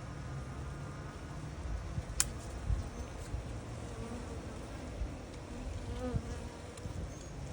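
Honeybees buzzing around their colony, with one sharp click about two seconds in.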